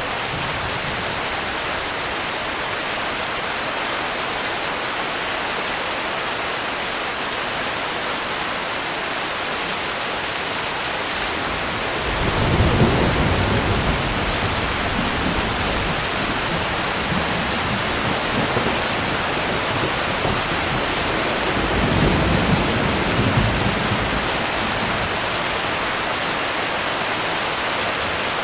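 Steady rain falling, with rolling thunder: a low rumble rises about twelve seconds in, fades back, and swells again about ten seconds later.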